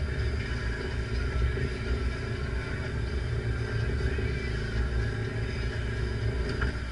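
Engine of a parked off-road 4x4 idling steadily, a low rumble close to the microphone.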